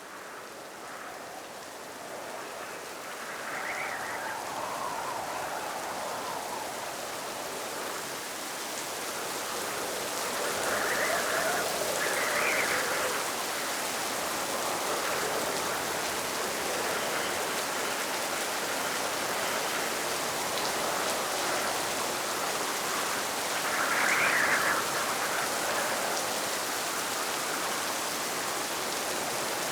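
Steady rain falling, growing louder over the first several seconds, with a few brief swells in intensity.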